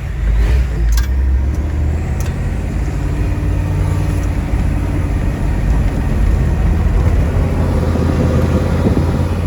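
Ford 7.3-litre IDI turbo diesel V8 running steadily as the four-wheel-drive truck drives into deep snow, with a couple of short sharp clicks about one and two seconds in.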